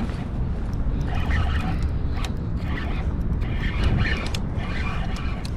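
Strong wind buffeting the microphone with a steady low rumble, with water sloshing and scattered sharp clicks.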